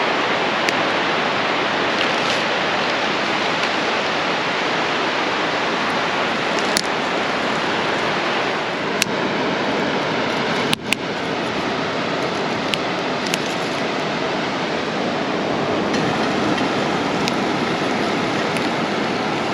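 Steady rushing wash of ocean surf, with a few sharp clicks scattered through it.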